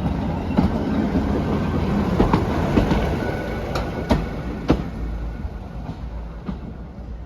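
Parry People Mover railcar running along the track, its wheels clicking over rail joints with a steady rumble that fades toward the end.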